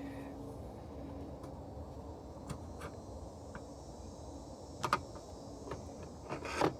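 Light clicks and handling noises from car parts being worked by hand, with a sharper click about five seconds in and several more near the end, over a low steady background hum.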